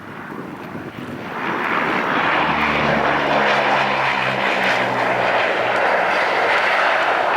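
Ilyushin Il-18's four Ivchenko AI-20 turboprop engines and propellers passing close on the landing, with the roar swelling about a second and a half in and then holding loud. A propeller drone sounds under the roar for a few seconds and dips slightly in pitch as the aircraft goes by.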